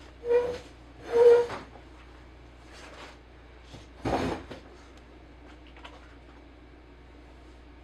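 Handling noises while glue is readied: two short squeaks about a second apart, then a knock about four seconds in, with a few faint ticks.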